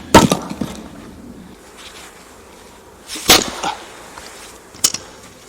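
Axe striking firewood: a heavy chop right at the start followed by a few smaller knocks, a second heavy chop about three seconds later, and a short sharp crack near the end.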